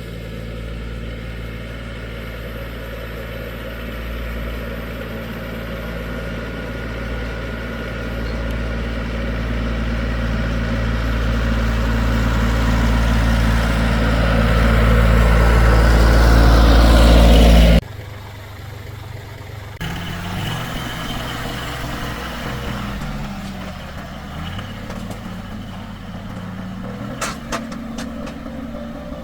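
Tractor engine running, getting steadily louder for most of the first half, then dropping suddenly to a quieter running sound whose pitch rises and falls, with a few sharp clicks near the end.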